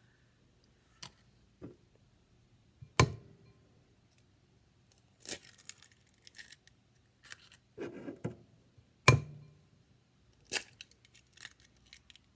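Eggs being cracked and their shells pulled apart: a string of sharp taps and knocks on a bowl, the loudest about three and nine seconds in, with brief crackling of eggshell between them.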